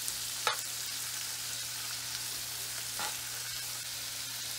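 Green beans, shallots and minced garlic sizzling as they pan-fry in bacon grease in a nonstick skillet, with a steady low hum underneath. Two light clicks, about half a second in and again near three seconds.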